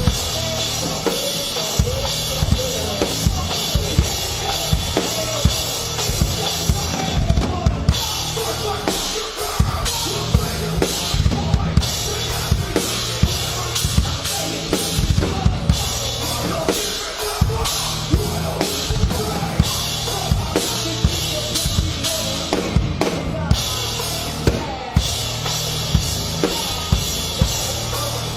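Rock drum kit played hard through a heavy song, with fast bass-drum hits, snare cracks and a steady wash of cymbals, and the band's music underneath.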